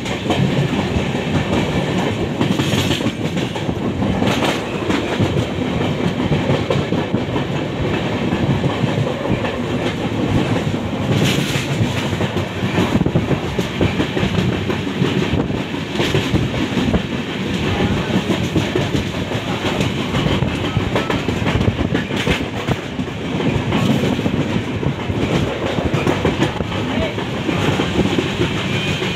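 Moving passenger train coach heard from its open doorway: the wheels run over the rails with a steady rumbling clatter, with a few sharper clicks along the way.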